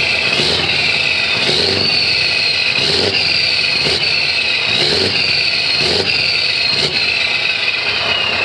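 Scania R500 V8 diesel truck engine with an open, straight-through exhaust, running steadily under power. Over the engine noise a high whistle drifts slowly up and down in pitch, and there is a faint pulse about once a second.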